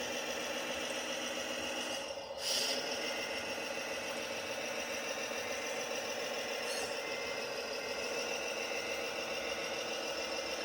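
Tamiya Globe Liner radio-controlled model truck running with a steady mechanical whine and rattle. The sound dips briefly about two seconds in, then comes back with a short louder burst.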